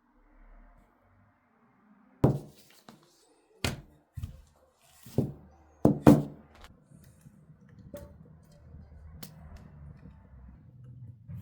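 A series of six or so irregular hard thunks, the loudest two in quick succession a little past the middle, then a faint low rumble.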